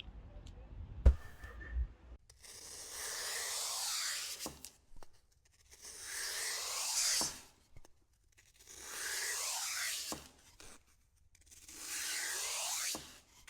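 Four long scraping strokes, each lasting one and a half to two and a half seconds, repeated at an even pace, with a short sharp knock about a second in.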